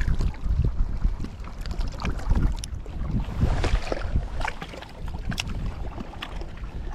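Gusty wind buffeting the microphone, a low rumble that rises and falls, with light water lapping and small splashes.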